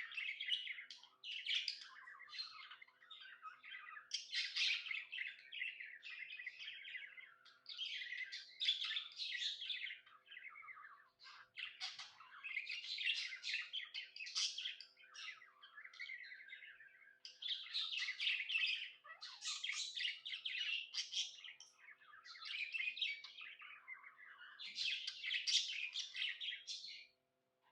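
Budgerigar chattering and warbling, a rapid run of chirps and squawky notes in phrases of a few seconds with short breaks, typical of a content, happy budgie.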